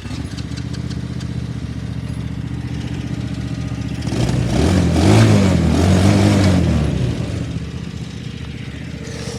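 Small petrol engine starts running steadily, then is revved up and down twice over about three seconds before settling back to a steady idle.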